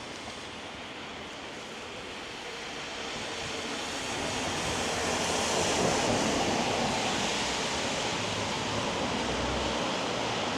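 Wet street ambience: a steady hiss of rain and tyres on a wet road, swelling to its loudest about halfway through as traffic passes.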